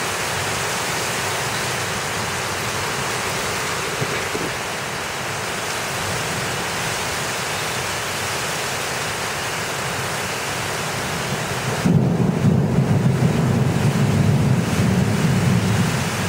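Heavy rain and hail pouring down in a thunderstorm, a steady loud hiss. About twelve seconds in, a loud, fluctuating low rumble sets in for about four seconds and the high hiss drops away.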